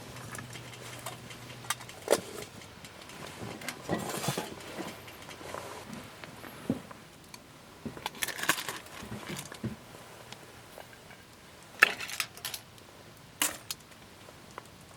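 Scattered sharp clicks and light knocks, the loudest about two seconds in and twice near the end, with a few brief rustles between them.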